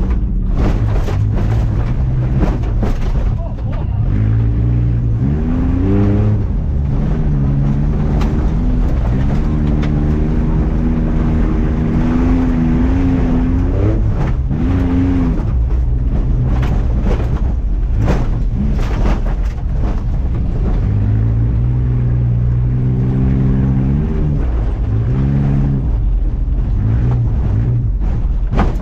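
Off-road race truck engines running hard on a dirt track. The pitch climbs and falls again and again as the throttle is worked, over a steady low engine note, with scattered knocks.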